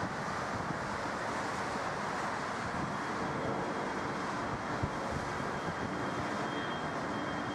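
Jet aircraft engines running, heard as a steady rushing noise, with a faint high whine coming in about five seconds in.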